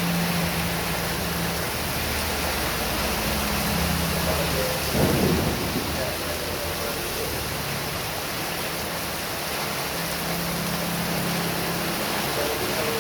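Heavy rain pouring steadily, with a short low rumble about five seconds in.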